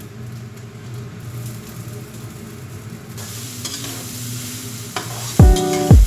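Food sizzling as it fries in a pan, the sizzle growing brighter and stronger about halfway through. Music with a steady beat comes in loudly near the end.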